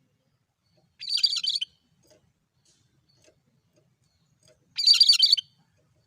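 Cucak kerinci calling: two short, harsh chattering phrases, one about a second in and another near five seconds, with a pause between.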